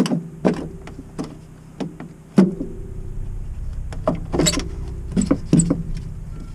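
About nine irregular knocks and clunks of ABS plastic drain pipe and fittings being handled and pushed together, several leaving a brief hollow ring in the pipe. A low rumble sets in about halfway through.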